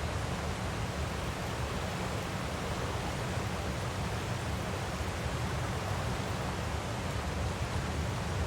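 Steady rushing of a waterfall, an even wash of noise with a heavy low rumble and no change.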